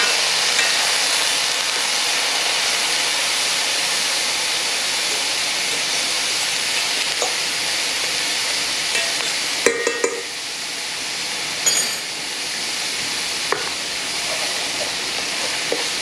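Diced onion and minced garlic sizzling as they sauté in oil in a stainless steel saucepan, with a utensil scraping and clinking on the pan as they are stirred. Two louder metal clinks come a little past halfway.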